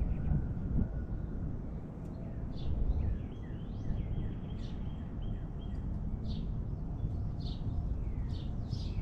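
Small wild birds giving short chirping call notes, scattered at first and coming quicker and louder near the end, over a steady low rumble of outdoor noise.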